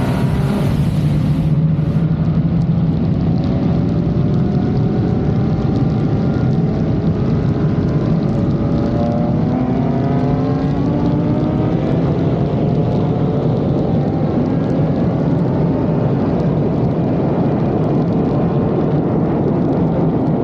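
Turbocharged BMW inline-six engines at full throttle in a race, pitch climbing through each gear and dropping back at the upshifts, over a heavy rumble of road and wind noise.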